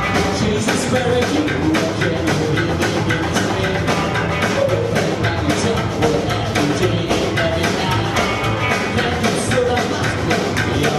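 Live rock band playing an instrumental passage: electric guitar, bass and drums with a steady beat.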